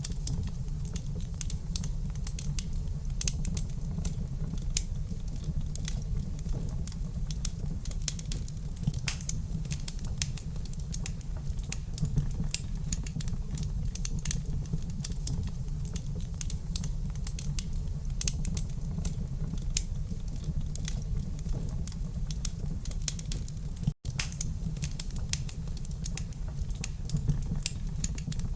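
Wood fire crackling in a fireplace: irregular sharp pops and crackles over a steady low rumble of the burning logs. A split-second gap in the sound about three-quarters of the way through.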